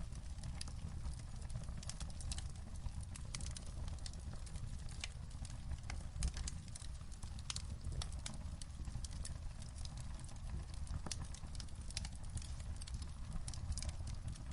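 Wood fire crackling in a fireplace: irregular sharp pops and snaps, one louder pop about six seconds in, over a low steady rumble.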